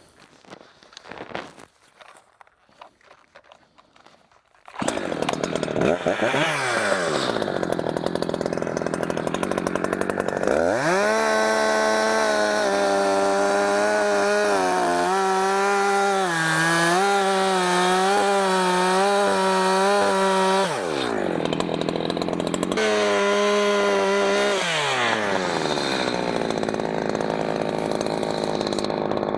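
Echo CS-620P two-stroke chainsaw bucking storm-downed oak. It starts suddenly about five seconds in, after a few faint seconds. It runs at high revs with a steady pitch for long stretches, and the pitch falls and recovers twice in the second half as the throttle eases and comes back on.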